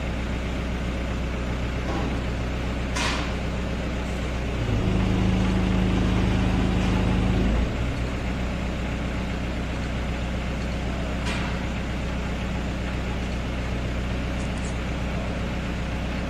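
Engine of a heavy vehicle running steadily, revving up for about three seconds around five seconds in, then dropping back. There are a couple of faint clicks.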